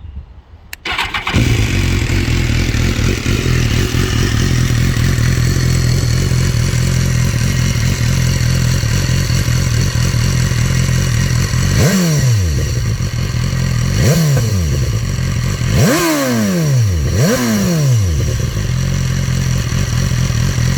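BMW S1000R inline-four with an aftermarket Akrapovic exhaust starting up about a second in, then idling steadily. In the second half the throttle is blipped several times, each rev rising sharply and dropping straight back to idle.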